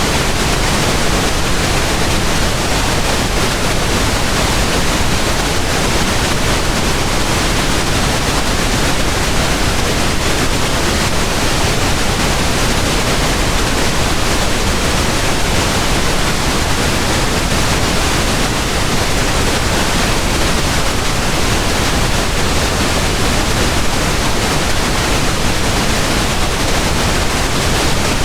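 Steady pink noise: an even, unbroken hiss spread across the whole range, its weight leaning toward the low end, with no change in level.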